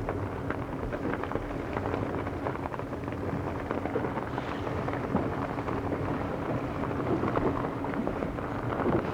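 A boat's engine running steadily, a constant low hum and rumble under a dense crackle of noise. The crew suspect a fault in the range between idling and powering up, maybe to do with the cooling.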